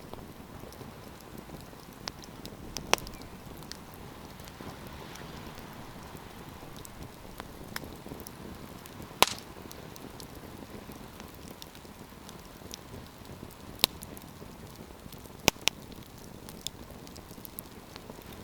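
Wood campfire burning: a steady low hiss with scattered sharp crackles and pops, the loudest about nine seconds in.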